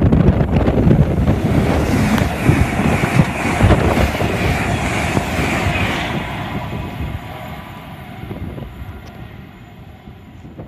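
LNER Class 801 Azuma electric train passing at speed, a loud rush of wheels on rails and air that fades away after about six seconds as it recedes.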